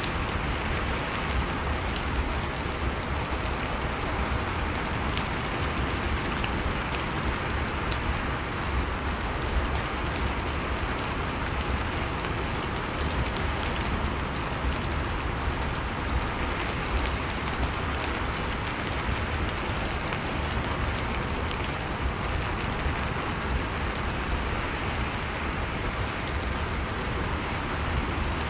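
Steady rain ambience: continuous rainfall with a low rumble and fine scattered drop patter, unchanging throughout.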